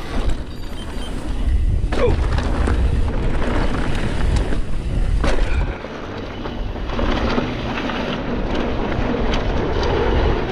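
Heavy wind rumble on the camera microphone during a mountain-bike ride, mixed with tyre and trail noise. Two short falling squeaks come about two and five seconds in.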